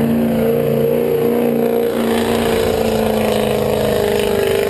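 Pickup truck engine held at high revs, as in a truck pull under load, its pitch climbing slowly over the second half.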